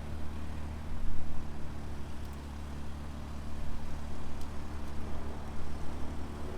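A car engine running steadily at a constant low pitch, with a couple of faint ticks.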